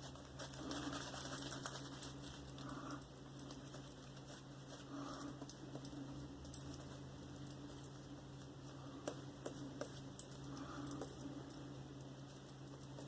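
Faint scattered clicks and light taps from shaving gear being handled, over a steady low room hum.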